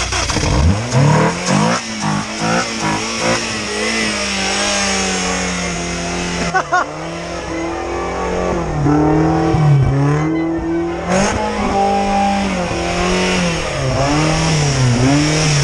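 Rover K-series four-cylinder engine catching as it is cranked and firing up for the first time in nearly 12 years, then running with its pitch rising and falling repeatedly as the throttle is blipped.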